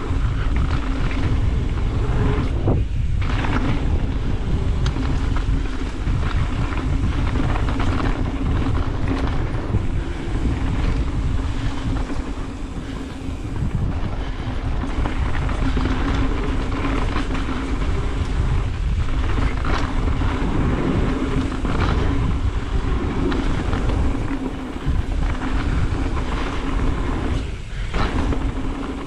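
Wind rushing over the microphone and tyre and trail noise from a mountain bike riding down a dirt trail, with a steady hum underneath that dips briefly twice.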